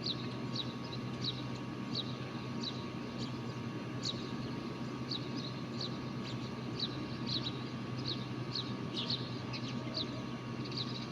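A small bird chirping over and over in short, high notes, one or two a second, over a steady low hum.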